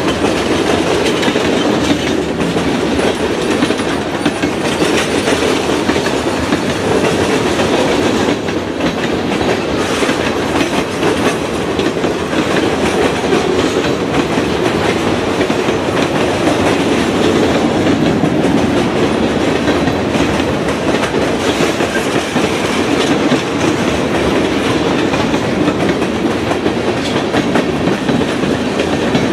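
Short mixed freight train crawling past, its railcar wheels clacking steadily over the rail joints.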